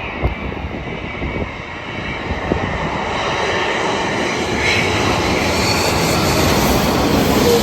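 Jet airliner's engines roaring as it passes close overhead, growing steadily louder to a peak near the end.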